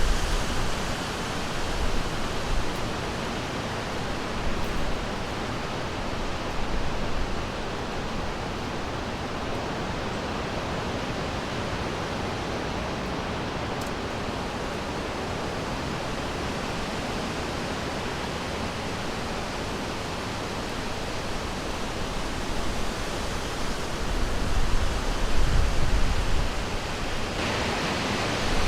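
River water flowing in a steady rush, with low rumbling swells now and then that grow louder near the end.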